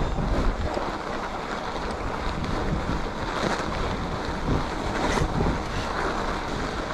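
Steady wind rush over the microphone of a mountain biker riding a groomed snowy trail, with a few faint clicks.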